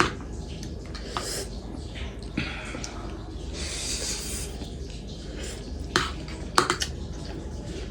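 Close-up eating sounds: chewing, with a few sharp clicks of utensils or dishes, two of them close together about six and a half seconds in, and a short noisy hissing stretch around the middle.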